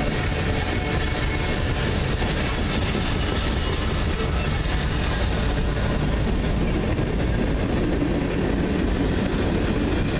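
Freight train cars rolling past steadily: a continuous rumble of wheels on rail with faint steady high tones above it.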